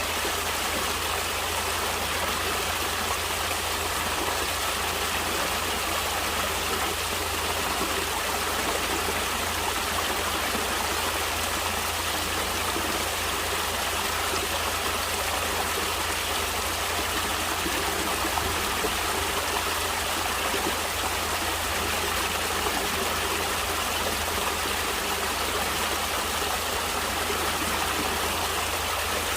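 Natural running water, a stream flowing steadily with an even, unbroken rush.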